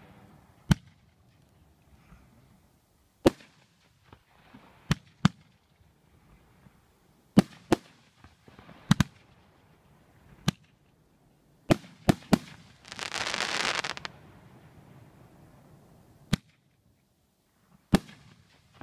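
Aerial fireworks bursting: about a dozen sharp bangs at uneven intervals, some in quick pairs. A hissing burst lasts about a second, a little past the middle.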